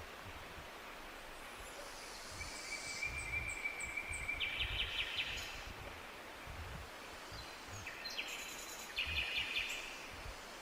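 Songbirds singing in a forest: a long held whistled note, a row of short high notes and repeated buzzy trills from more than one bird, over a steady background hiss.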